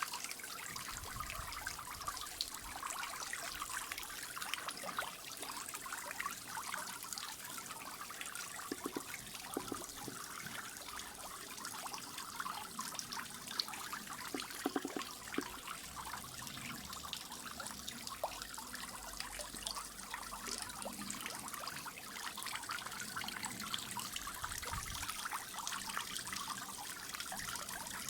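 Water from a small garden-pond waterfall trickling and splashing steadily into the pond, with many small drips and splashes.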